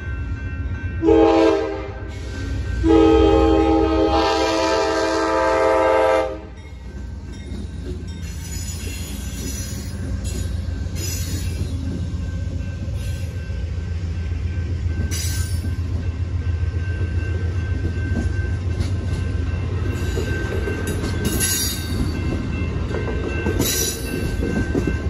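Amtrak GE P42DC locomotive horn sounding a short blast about a second in, then a long blast of about three seconds for the grade crossing. After that the double-deck passenger cars pass in a steady low rumble, with wheels clicking over the rail joints and a few clanks. A steady crossing bell rings behind it all.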